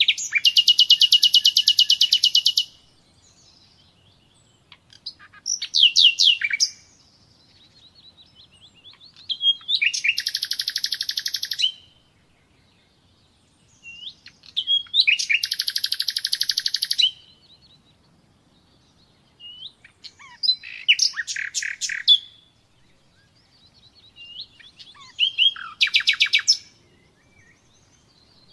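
Common nightingale singing: six phrases of rapidly repeated high notes, each one to three seconds long, separated by pauses of about three seconds.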